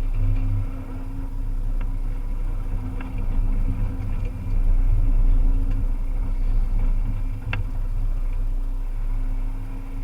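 Volvo EC300E excavator's diesel engine running steadily, swelling a little in loudness about halfway through, with a few faint sharp clicks.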